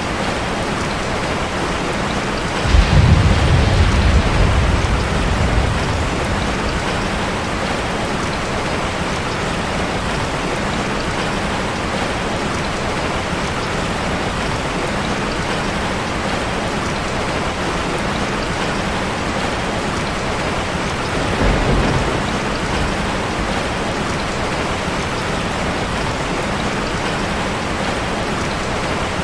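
Steady rain falling on a metal roof, with a sudden deep rumble about three seconds in that fades over a few seconds, and a shorter, weaker rumble about twenty-one seconds in.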